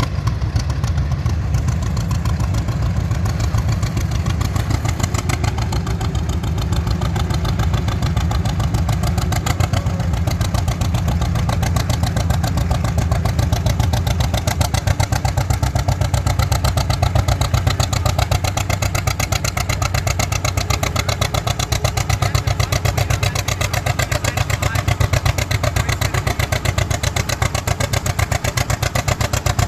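Vintage tractor engine running steadily at an even speed, its rapid firing pulses unchanging.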